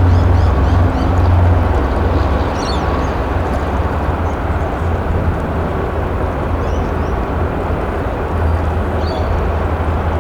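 Wind buffeting the microphone in a strong, uneven low rumble over a steady background roar, with small birds chirping now and then.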